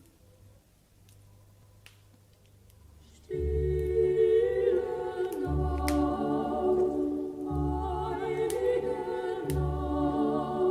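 A near-silent pause with a few faint clicks, then about three seconds in a choir starts singing a Christmas song over low bass notes.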